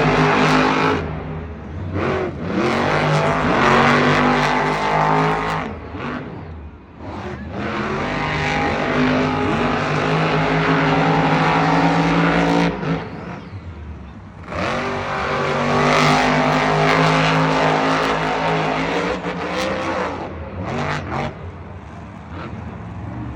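Monster truck supercharged V8 engines revving hard in a side-by-side race, the note rising and falling, with two brief drops in level around six and fourteen seconds in.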